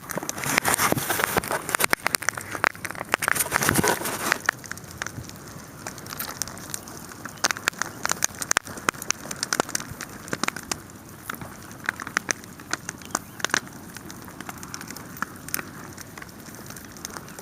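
Wood fire burning, crackling with sharp pops scattered irregularly throughout. The noise is denser and louder for the first four seconds, then settles to a softer hiss under the pops.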